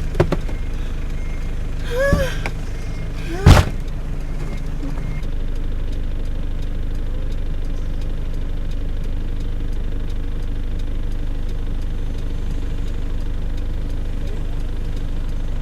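Motor vehicle engine running with a steady low rumble, with a brief voice-like sound about two seconds in and a single sharp knock about three and a half seconds in.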